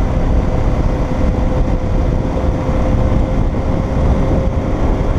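Motorcycle riding steadily at road speed: a constant rush of wind and road noise with a steady engine hum underneath.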